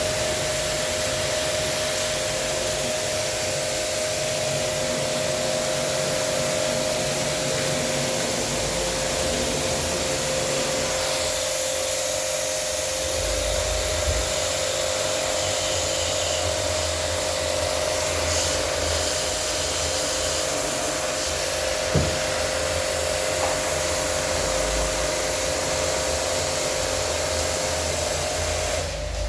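A small electric machine running steadily with a strong hiss and a fixed whine, with a low rumble coming and going; it stops just before the end.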